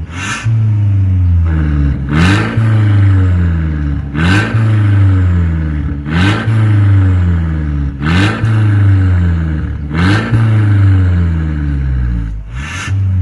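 Mercedes-Benz E250's engine revved through a stainless full aftermarket exhaust with a remote-controlled valve. It comes as sharp throttle blips about every two seconds, each rising quickly and then falling away.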